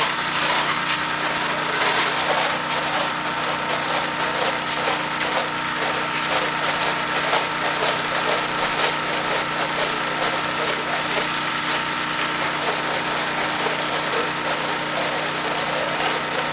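Pressure washer's engine running steadily, under a continuous hiss of water spray.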